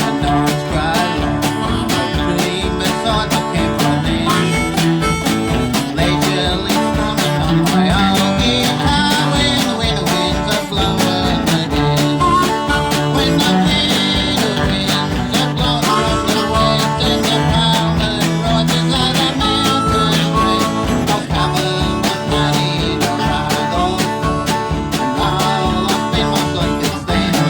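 A country band playing a song with guitar and a steady, even beat.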